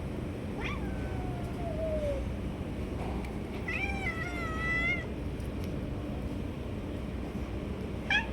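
Cat meowing three times: a falling meow about half a second in, a longer wavering meow around the middle, and a short meow starting at the very end, over a steady low background noise.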